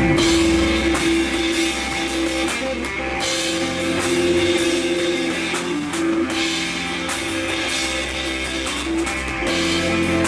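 Live rock band playing an instrumental passage: distorted electric guitar holding a sustained note, with drum kit and bass. The low end drops back about three seconds in and comes back in full near the end.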